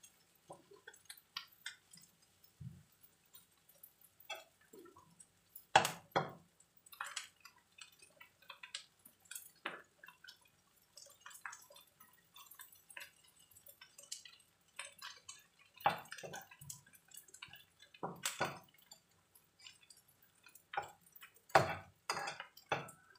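Shrimp with shallots and chilies stir-frying in oil in a nonstick wok: scattered crackles and pops of the frying, with a few louder scrapes and knocks as the spatula turns the food against the pan.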